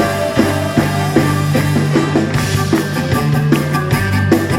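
Rock and roll band playing an instrumental stretch with no vocals: a bass line held on steady notes under a regular drum beat, with pitched instruments above.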